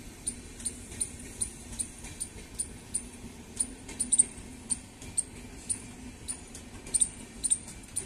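Indian Railways express train's coaches rolling past: a steady low rumble with a run of sharp metallic clicks, about two to three a second, some coming in quick pairs.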